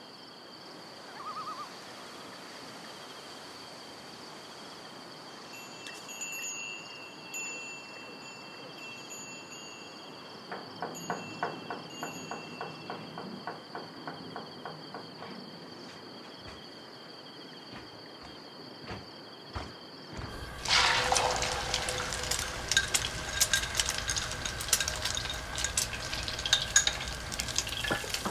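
A steady high insect trill with a few short chirps and a brief run of quick ticks. About twenty seconds in, loud kitchen cooking noise starts: a hiss with clattering.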